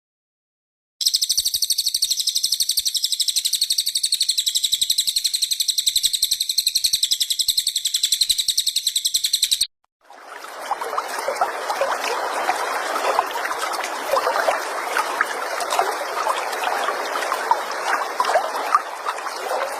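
A small songbird singing a continuous, very rapid, high-pitched trill for about eight seconds, which cuts off abruptly. After a short break, a steady rushing, water-like hiss follows, with quick faint chirps through it.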